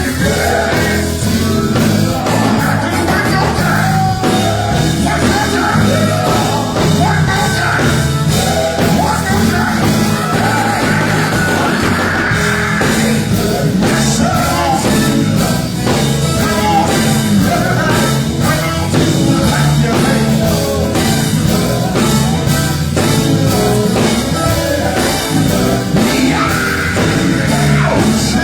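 Gospel group singing with a live band, drums keeping a steady beat under the voices.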